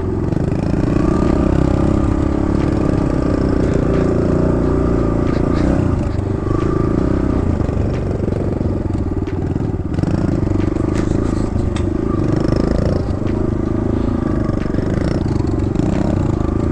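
Kawasaki KLX110 dirt bike's single-cylinder four-stroke engine running while riding a dirt trail, with scattered knocks and rattles of the bike over rough ground.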